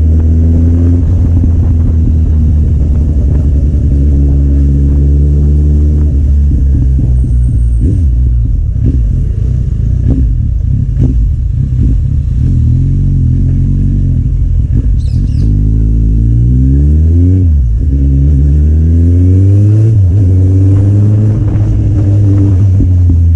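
Kawasaki Z800's inline-four engine through an Akrapovic aftermarket exhaust, heard while riding. Its pitch climbs and drops several times as the bike accelerates and shifts, with a sharp rise and fall about two-thirds of the way through.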